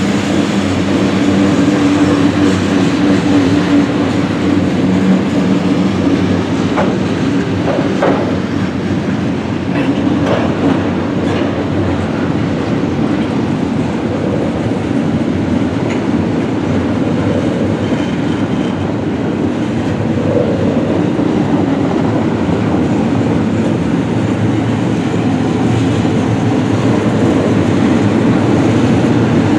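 Freight train cars rolling past in a steady rumble of wheels on rail, with a few sharp clicks a third of the way in.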